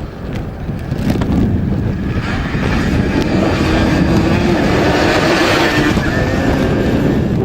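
Engine of a rally motorcycle or quad running past, building over the first two seconds and then holding a steady note, with wind rumbling on the microphone.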